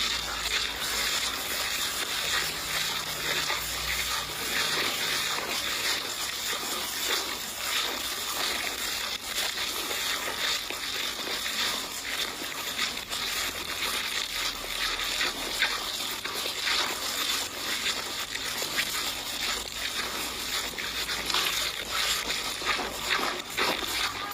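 Water splashing and sloshing continuously, with many small splashes and slaps, as fish are harvested from shallow swamp water.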